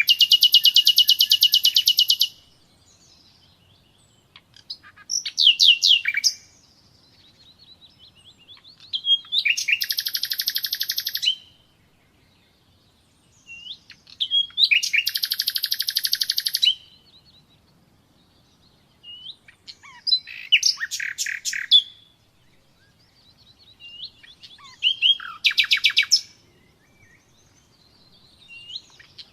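Common nightingale singing: a string of song phrases about two seconds long, each a fast run of repeated high notes, with pauses of two to three seconds between them.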